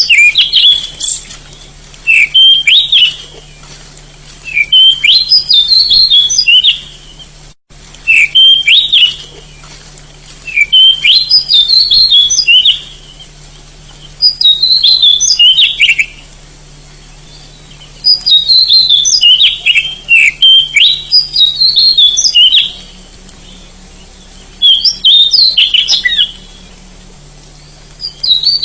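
Oriental magpie-robin (kacer) singing: about ten short bursts of quick, varied whistled phrases, one every two to three seconds, with brief pauses between them.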